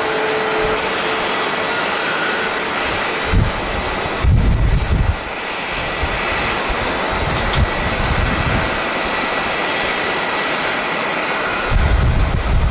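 Jet airliner engine noise, a steady loud rush, with gusts of strong wind buffeting the microphone in low rumbles several times.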